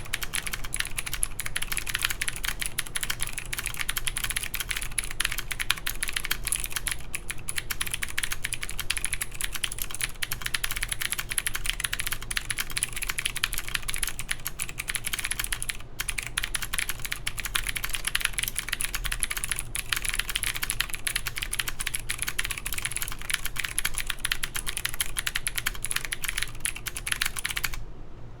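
Continuous fast typing on an OTD 356CL mechanical keyboard with clicky Cherry MX Blue switches in an aluminium plate, under Cherry G81-3077 keycaps: a dense stream of sharp key clicks. It pauses briefly about halfway and cuts off suddenly near the end.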